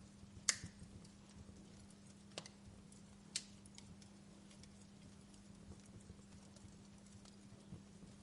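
Wood fire crackling in a fireplace: scattered sharp pops, the loudest about half a second in and two more at around two and a half and three and a half seconds, with fainter crackles between over a faint steady hum.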